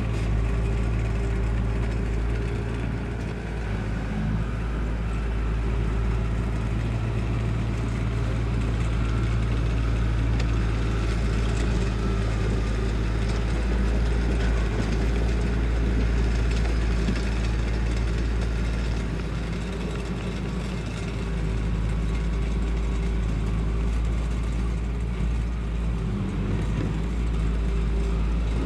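Diesel engine of a heavy construction machine running steadily for the whole stretch, a constant low drone with small rises and falls in level.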